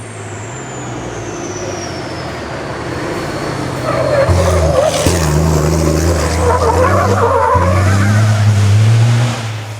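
Racing truck's engine running hard under load, getting louder about four seconds in, with a heavy rushing noise over it. A thin high whine falls in pitch during the first few seconds.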